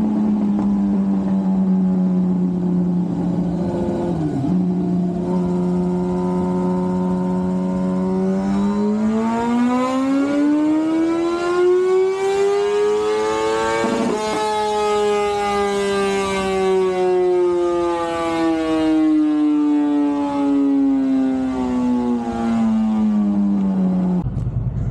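Sport bike engine run on a dynamometer: it holds steady revs, then climbs smoothly in pitch through a dyno pull to its highest revs about 14 s in, then winds slowly back down until it cuts off near the end.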